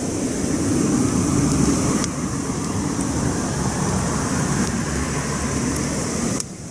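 Campfire burning: a steady low rumble with a few faint crackles, the rumble dropping off sharply near the end.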